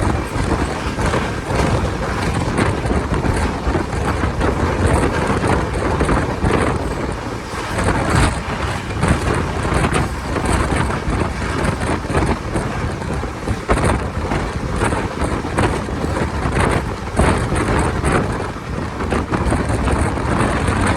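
Tapti Ganga Express train running at speed: a steady loud rumble with rapid clatter of the wheels over the rails, and wind buffeting the microphone.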